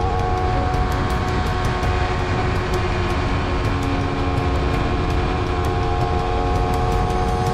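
Honda CBR250RR parallel-twin engine running through an Akrapovic slip-on exhaust, holding a steady engine speed over a strong low rumble.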